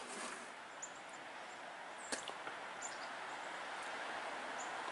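Faint steady outdoor background hiss with a few brief, high bird chirps and a soft click about two seconds in.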